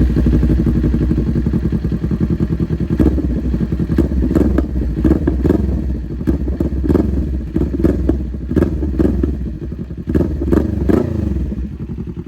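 2022 Kawasaki Ninja 400's parallel-twin engine through an Austin Racing straight-piped exhaust, revved in quick repeated throttle blips that rise and fall sharply, with pops and crackles from the exhaust. It settles to a lower, steadier note near the end.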